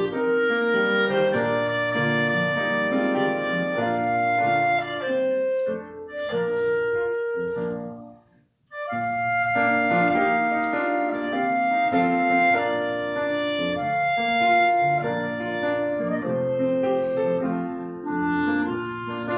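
Clarinet playing a slow, sustained melody over piano accompaniment, with a brief pause between phrases about eight and a half seconds in.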